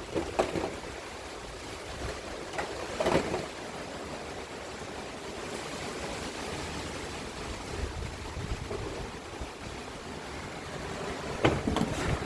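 Steady rushing noise of a cyclonic storm's wind, with a few short louder sounds rising out of it about three seconds in and again near the end.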